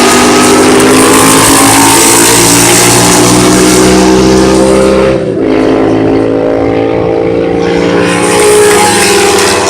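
Several racing motorcycle engines running at high revs as they pass, the pitch slowly falling. The sound dips about five seconds in, then another engine comes through.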